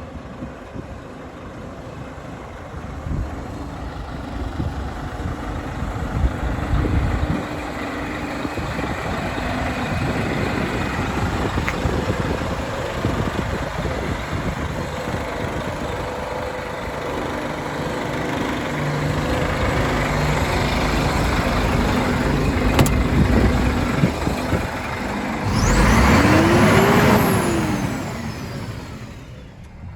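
Heavy truck running on the move, a steady engine note under road and wind noise that grows louder over the first ten seconds. Near the end a louder rush swells and dies away, rising then falling in pitch.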